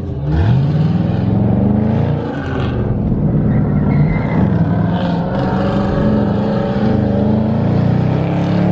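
Car engine revving hard: the pitch sweeps up just after the start and is then held at high revs, wavering, with a brief dip about two and a half seconds in, as in a burnout attempt.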